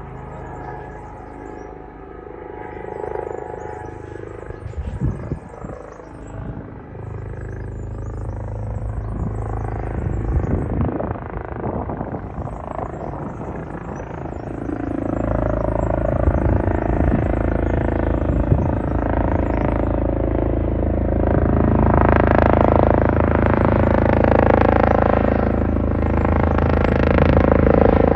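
Airbus EC145T2 helicopter's twin turbine engines and rotor running, the sound swelling clearly louder about halfway through and staying loud.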